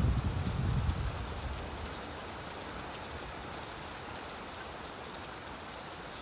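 Steady rainfall hiss, with a low rumble fading out over the first second or two.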